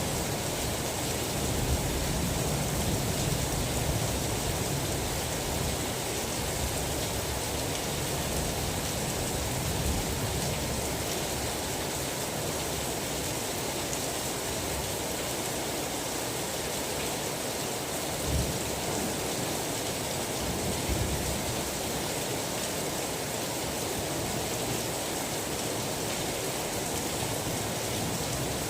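Steady rain falling, with the low rumble of thunder dying away over the first few seconds and a brief low thump a little past the middle.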